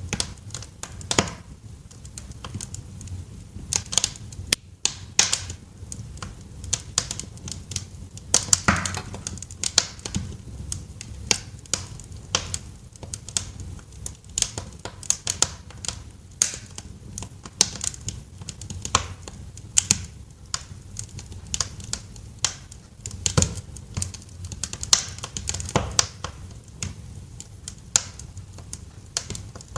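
Wood fire crackling in a fireplace: irregular sharp pops and snaps, some loud, over a steady low rumble of the burning fire.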